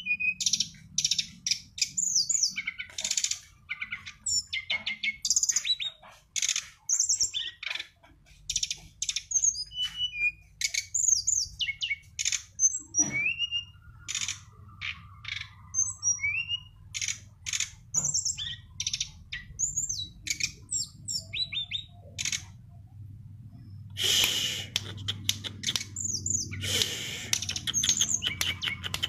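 A songbird singing a fast, varied run of high chirps, trills and short whistled glides, with denser, scratchier chattering phrases near the end.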